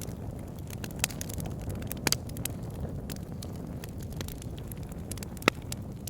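Wood fire burning, a steady low rumble of flame with scattered sharp pops and crackles, the loudest pop about five and a half seconds in.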